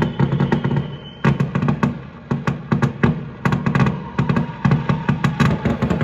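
Many fireworks going off at once: a dense, irregular run of bangs and crackling pops, with a faint falling whistle in the first second.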